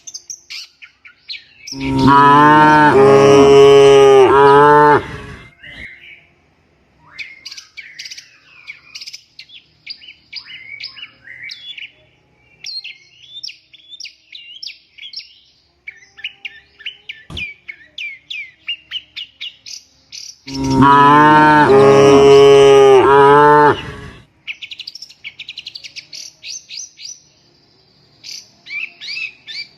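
Cow mooing: two long, loud moos of about three seconds each, the second coming some twenty seconds after the first. Small birds chirp rapidly in between.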